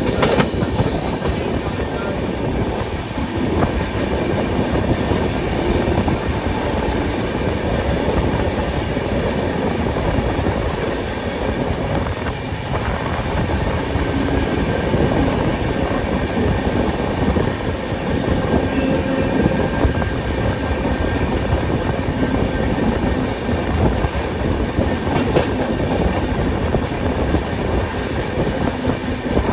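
Ashokapuram Express, an Indian passenger express, running at speed without stopping: a steady, continuous noise of wheels on rails. A faint high squeal fades out in the first couple of seconds.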